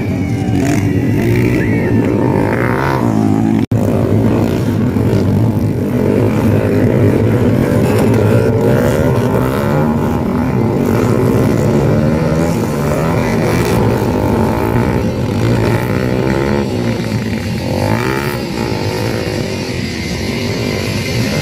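Dirt bike engines revving hard, their pitch rising and falling again and again as the bikes race.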